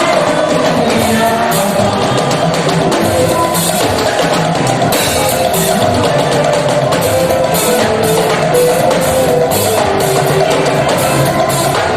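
Live church band music with a drum kit keeping a steady beat, cymbal strokes about twice a second over sustained instrument notes.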